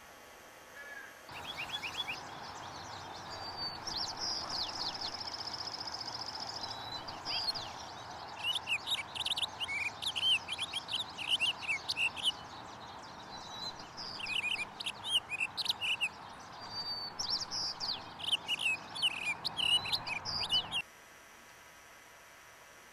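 Bird song: a high buzzy trill, then repeated bursts of quick, high chirping notes over a steady hiss. The recording starts and cuts off abruptly.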